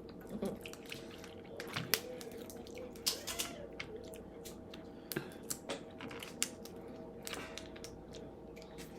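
Scattered irregular clicks and cracks of crab shells being broken and picked apart by hand while eating.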